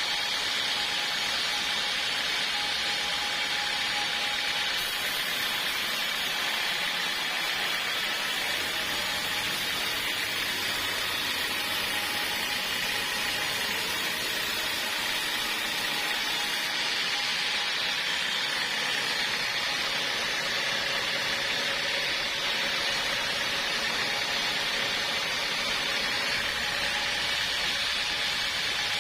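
Sawmill blade cutting through a log of old hardwood, a steady rushing, hissing noise that runs without a break.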